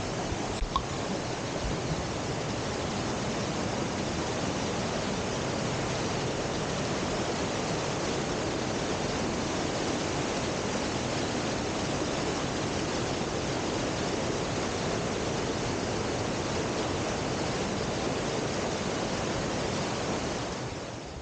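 Waterfall: a steady, even rush of falling water that drops away just before the end.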